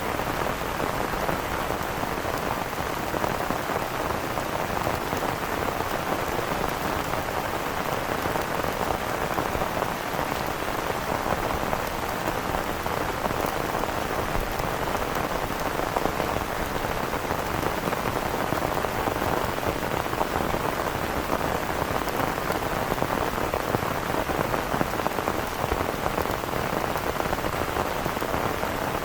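Heavy rain pouring steadily, a dense even patter with no let-up.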